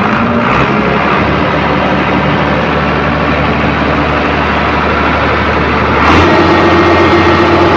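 Large tractor engine running steadily. About six seconds in it gets louder, with a higher tone joining in.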